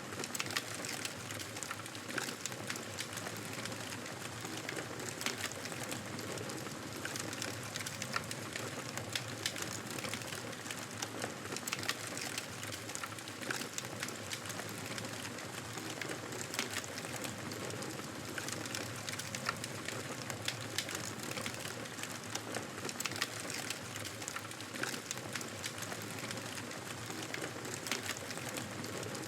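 Wood fire burning in a fireplace, a steady hiss of flames with frequent irregular crackles and pops.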